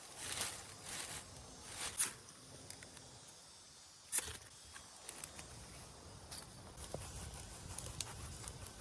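Rustling and crackling with a couple of sharp snaps, then quieter scattered ticks.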